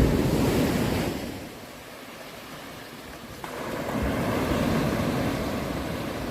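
Sea surf: a wave surges loudly at the start and fades after about a second, then another wave swells in about three and a half seconds in.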